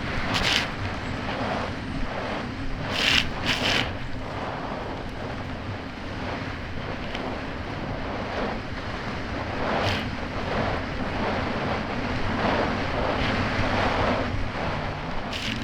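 Kawasaki Ultra 300X jet ski's supercharged four-cylinder engine running steadily under way, buried under heavy wind noise on the microphone and rushing water. A few sharp slaps of the hull hitting the chop come near the start, twice around three seconds in, around ten seconds in and near the end.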